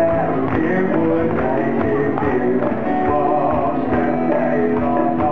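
Live Thai pop-rock band music with singing: held vocal notes over a steady drum beat, recorded with a dull, muffled top end.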